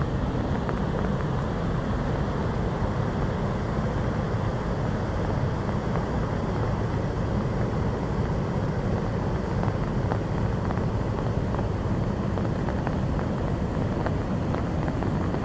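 Waterfall rushing: a steady, unbroken noise of falling water, heaviest in the low range.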